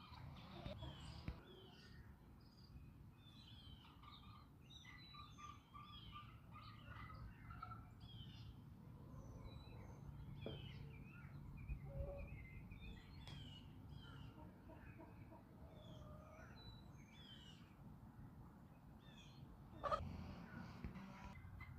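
Faint backyard ambience of small birds chirping and twittering throughout, over a low steady rumble. A short, sharp knock stands out near the end.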